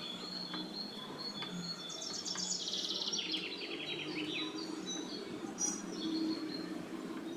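A bird's rapid trill, falling in pitch, about two seconds in, with a few shorter chirps later, over a steady low background hum.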